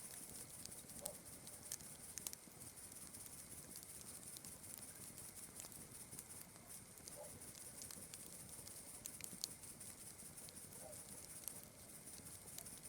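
Faint campfire crackling, with irregular sharp pops that come thicker in the first couple of seconds. Under it runs a steady high chirring of night insects such as crickets.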